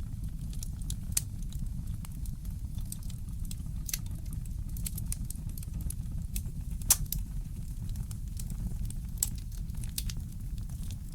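Wood fire crackling in a fireplace: irregular sharp pops and snaps, one louder pop about seven seconds in, over a low steady rumble.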